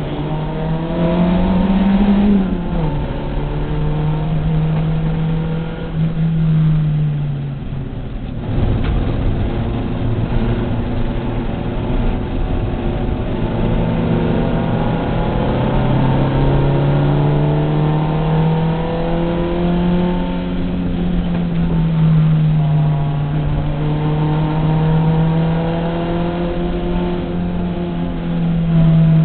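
Volkswagen race car's engine heard from inside its cabin at racing speed, revving up and dropping back in pitch at each gear change and lift, with a brief easing about eight seconds in, over road and wind noise.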